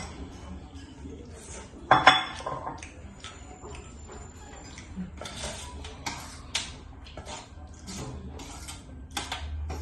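Eating utensils clinking and scraping against bowls during a meal: a string of short knocks and clinks, the loudest about two seconds in.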